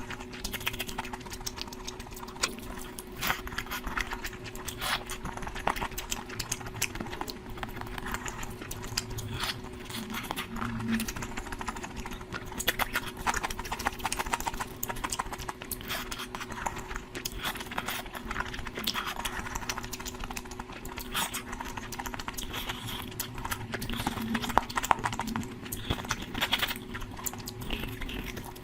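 Close-miked eating sounds of a person eating curry: a dense, irregular run of wet clicks and smacks from chewing and mouthfuls, over a faint steady hum.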